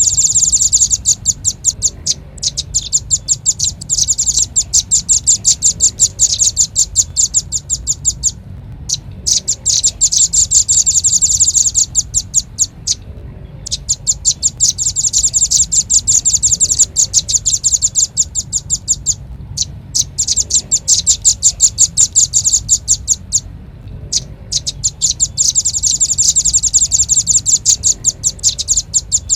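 Velvet-fronted nuthatch call played as a bird lure: rapid, high chipping notes run together in long strings of several seconds, broken by brief pauses about every four to six seconds.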